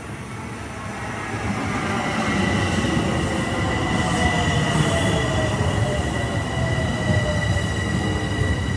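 Train running past, a heavy rumble that grows louder over the first two seconds and then holds, with a steady high-pitched wheel squeal from about two seconds in.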